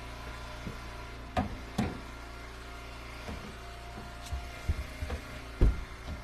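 Firewood splitter's engine running steadily, with a series of short wooden knocks and thuds as split ash firewood pieces drop and are tossed onto the pile; the loudest thud comes near the end.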